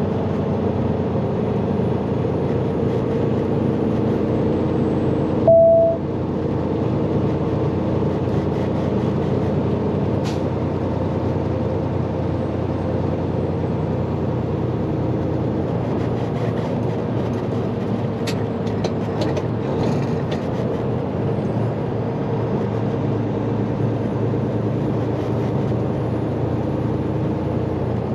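Semi truck's diesel engine running steadily while driving, heard from inside the cab. About five seconds in, a short loud beep sounds once.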